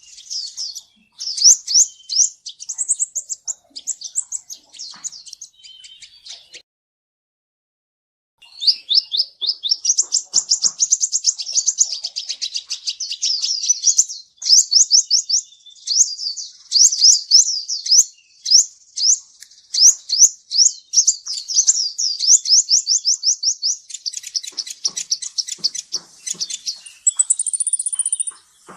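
Kolibri ninja sunbird singing: fast runs of high, thin, sweeping chirps, a pause of about two seconds, then a long, unbroken stream of rapid rising and falling notes, ending in a brief high whistle.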